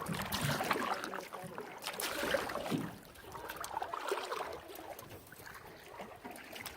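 Canoe paddling on a river: water splashing and trickling around the paddles and hull, with scattered small knocks and splashes, louder in the first three seconds and quieter after.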